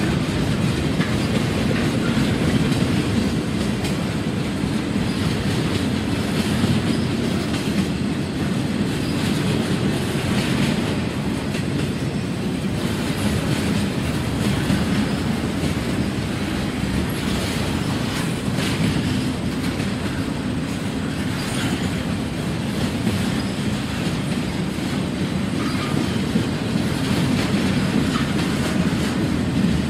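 Freight train of flatcars rolling steadily past: a continuous rumble of steel wheels on the rails, with the clickety-clack of wheels over rail joints.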